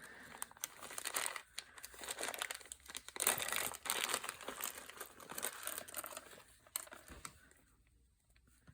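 Crinkling and rustling of craft-supply packaging being handled, dense and busy, then dying away about seven seconds in.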